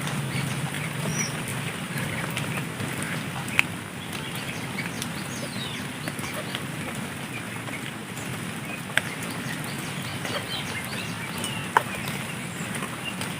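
Outdoor ambience: a steady background hiss with faint, scattered bird chirps and three sharp clicks spread across it.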